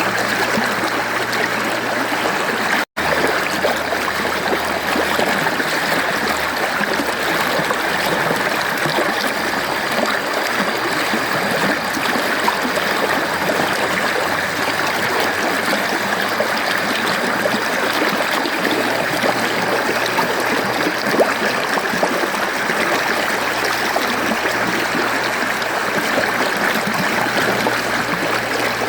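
Mountain stream flowing steadily, a constant rush of water with trickling, broken by a momentary gap about three seconds in.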